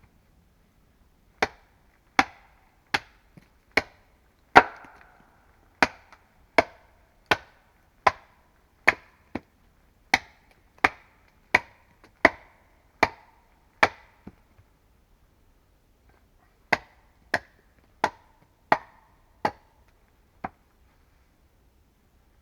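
Hand tool striking wood in steady, even blows, one about every three-quarters of a second. More than a dozen strokes come first, then a pause of about two seconds, then six more.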